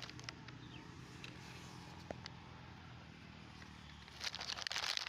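Faint outdoor background with a low steady hum and a few soft clicks, then about four seconds in a dense crackling rustle starts up.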